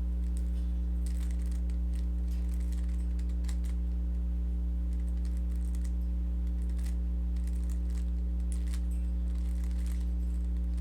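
Rubik's cube being turned, its plastic layers clicking in quick irregular clusters, keyboard-like. A steady electrical hum runs underneath and is the loudest thing.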